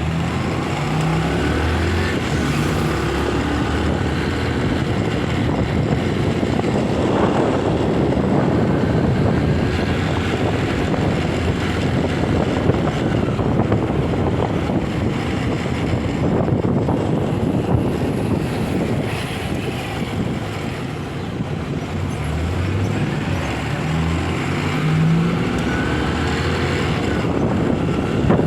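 Motorcycle riding along, with wind and road noise over the mic; the engine's low note stands out near the start and again near the end, stepping up in pitch as it accelerates.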